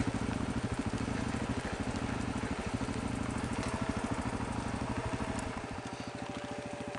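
Motorcycle engine running under way, its firing pulses steady and even; about five and a half seconds in the throttle eases off and the engine note drops lower and quieter. A faint steady whine runs alongside in the second half.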